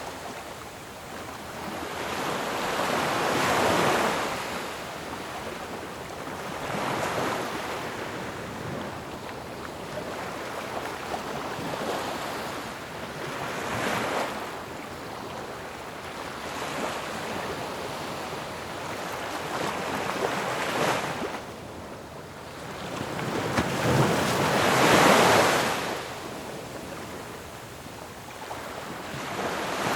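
Ocean waves crashing on a shore: the surf rises and falls in irregular surges every few seconds, with a steady hiss of wash between them and the biggest break near the end.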